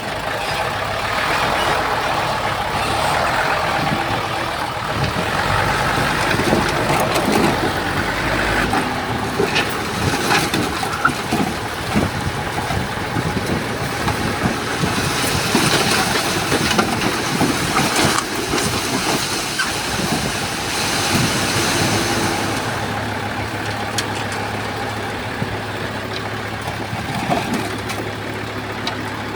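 Heavy earthmoving machinery at work: diesel engines running steadily under many short metallic clanks. A hiss comes in about halfway through and stops a few seconds later.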